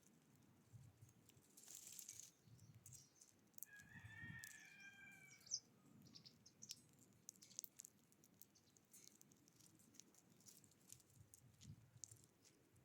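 Faint wild-bird sounds: scattered small clicks and taps, a brief rush of noise about two seconds in, and one drawn-out bird call about four seconds in.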